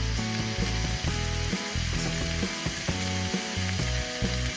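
Eggplant sticks sizzling in hot oil in a frying pan as they are added, a steady frying hiss, with background music under it.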